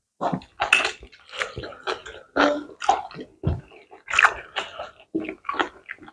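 Close-up eating sounds: wet, irregular chewing and smacking of pounded yam swallowed with slimy ogbono soup.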